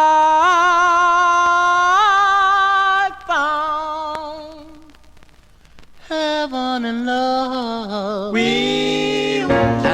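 Unaccompanied singing: long held vocal notes with vibrato, easing off in the middle and then swelling again. Near the end the instrumental backing comes in under the voices.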